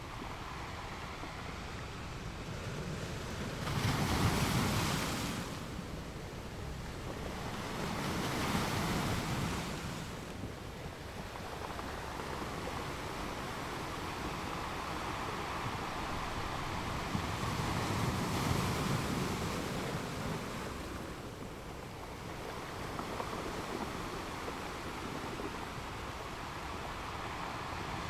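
Ocean surf washing on a beach: a steady hiss of water with waves breaking and swelling louder about four seconds in, again around eight seconds, and near eighteen seconds.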